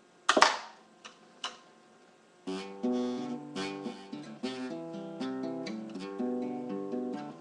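Acoustic guitar: one loud hit on the strings shortly after the start, then from about two and a half seconds in, chords strummed in a steady rhythm.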